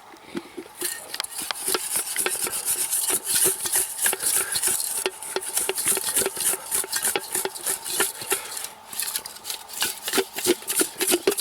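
Pieces of raw grayling and coarse salt being shaken hard in a bowl covered with a cup, a fast, uneven run of knocks and rattles as the fish mixes with the salt for sagudai.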